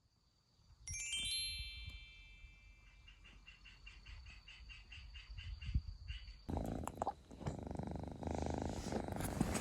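A short, bright chime-like jingle of several held high tones about a second in, then a kitten purring close to the microphone from about two-thirds of the way through.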